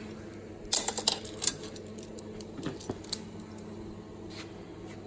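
Metal tools and parts being handled, clinking and clattering: a quick run of sharp clinks about a second in and a couple more around three seconds, over a steady low hum.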